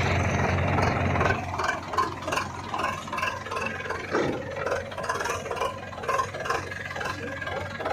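Diesel engine of heavy farm and earthmoving machinery running steadily, with clattering and rattling on top. Loudest just after it starts, then a little lower and uneven.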